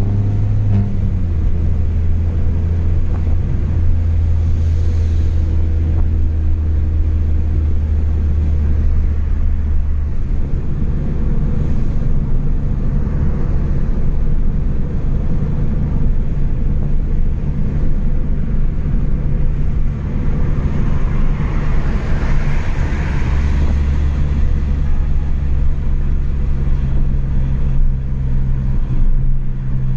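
Chevrolet Astra 2.0 four-cylinder engine running through a straight-through exhaust while driving: a steady low drone whose pitch steps up and down a few times as the revs change, with road noise underneath.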